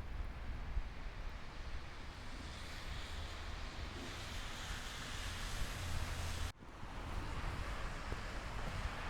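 Snowstorm wind buffeting the microphone with a low rumble under a steady rushing hiss. The sound cuts out for an instant about two-thirds of the way through, then resumes.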